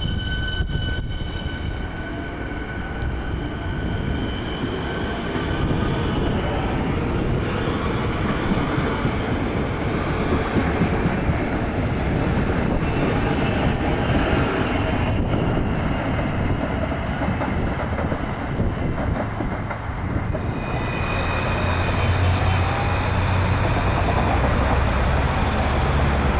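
Electric suburban train running on the rails, with steady wheel-and-track noise and a whine that glides in pitch as it moves.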